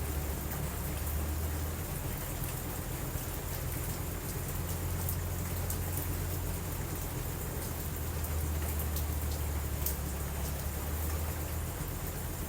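Steady rain falling, with a continuous low rumble underneath and a few faint ticks.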